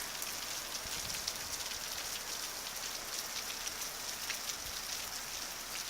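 Heavy hurricane rain falling steadily, a dense even hiss with scattered drops ticking nearby.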